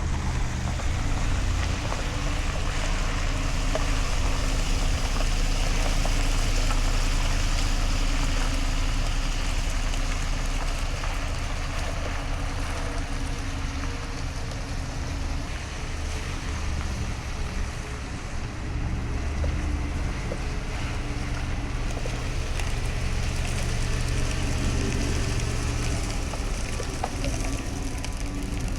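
A work vehicle's engine running steadily under a constant hiss, easing off a little for a few seconds midway.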